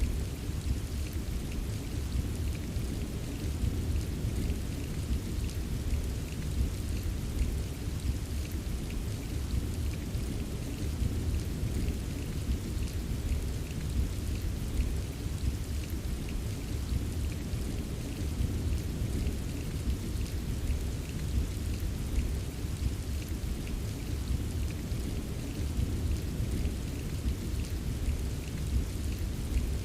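Steady rain ambience: a constant low rumble under a light patter of drops.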